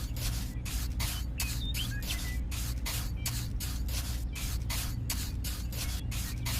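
Small motorised model machine running: a rhythmic hissing chuff about five times a second over a steady low hum.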